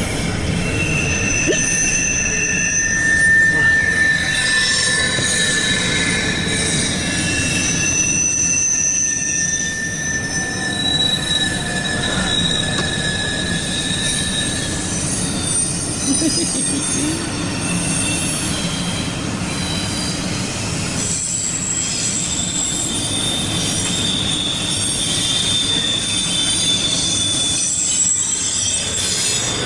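Double-stack intermodal freight cars of a CSX train rolling past, wheels on rail making a steady rumble. High-pitched wheel squeal comes and goes in short stretches of a second or two.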